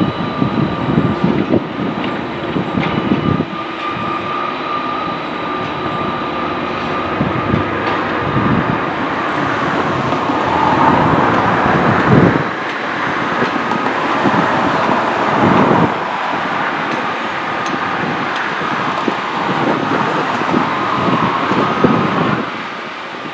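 Train running on its track: a continuous rumble of wheels on the rails with a steady high tone over it, fading down just before the end.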